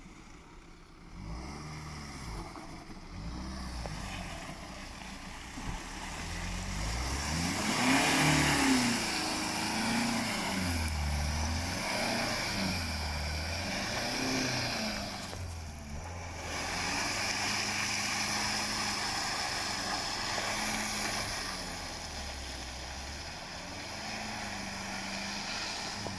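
Land Rover Freelander 2's 2.2 diesel engine revving up and down again and again as the SUV drives through wet mud and grass on street tyres. It is loudest about eight seconds in and drops out briefly near the middle.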